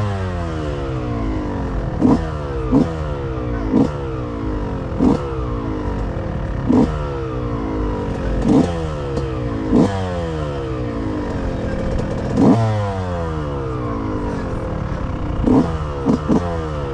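Motocross bikes racing past one after another, about ten times. Each comes in as a sharp, loud peak of engine noise, then its pitch falls away as it goes by, over the steady sound of other bikes on the track.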